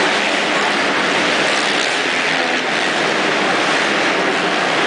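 Loud, steady rushing noise of a motocross bike on the move, with no clear engine note standing out.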